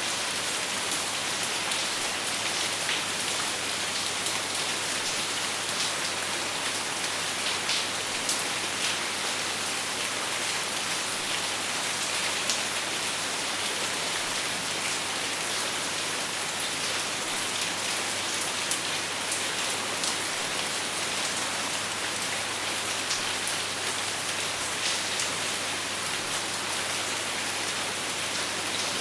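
Steady, heavy rain falling on a surface, a dense even hiss with scattered sharper drop ticks and no thunder.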